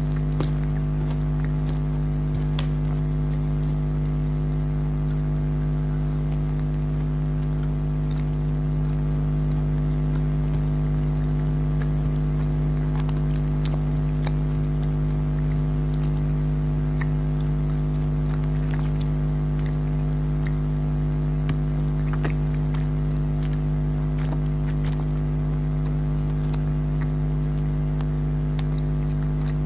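A steady low hum with several held tones runs throughout, under scattered small clicks of jelly candy being bitten and chewed.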